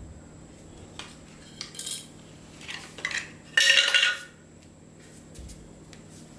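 Hard metal objects clinking and clattering against each other: a few light clicks, then short clusters of ringing clinks, the loudest clatter about halfway through.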